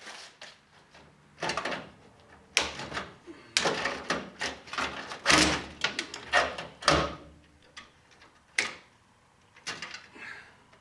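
An irregular series of short scrapes and knocks, like sheet metal being handled and worked on the rusted floor of an old pickup cab. The noises are thickest in the first two-thirds and thin out near the end.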